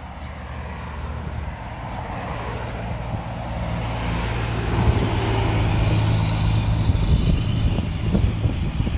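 Diesel train approaching, its low engine drone growing steadily louder over the first five seconds and then holding steady.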